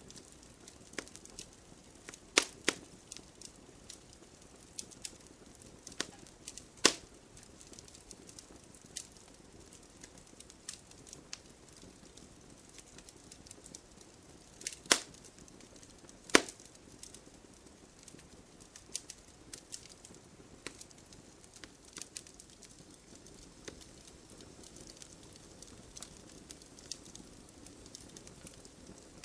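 Wood fire crackling in a fireplace: frequent small snaps and ticks over a faint hiss, with a handful of sharper, louder pops scattered through, the two loudest a little past halfway.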